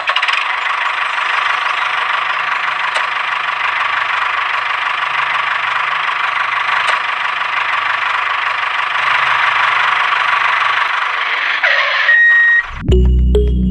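A small electric motor running steadily with a whirring hiss, stopping near the end.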